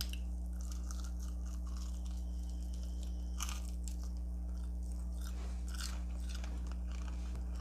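Crunchy bites and chewing of Flamin' Hot Cheeto-coated fried chicken wings close to the microphone, in scattered crunches over a steady low hum.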